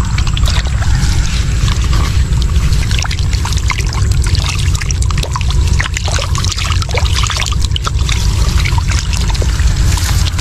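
Water splashing and trickling, with many small irregular splashes over a steady low rumble.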